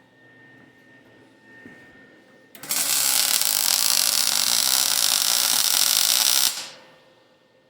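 Electric welding arc on a hand rail: a steady, dense noise that starts abruptly about two and a half seconds in, runs for about four seconds, then fades out.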